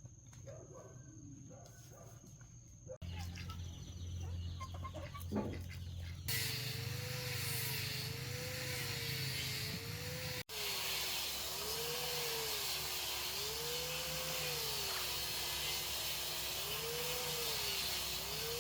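Chickens clucking faintly. After abrupt cuts comes a louder steady hiss, with a tone wavering slowly up and down about every second and a half.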